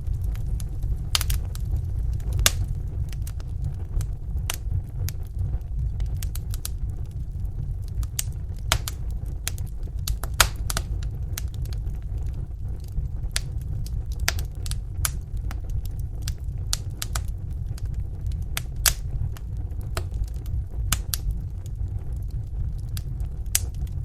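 Wood fire in a fireplace crackling: irregular sharp pops and snaps, a few louder ones, over a steady low rumble of the burning fire.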